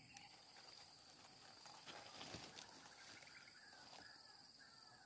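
Faint, steady high-pitched insect drone, with a brief soft rustle of brush about two seconds in and a few faint short chirps toward the end.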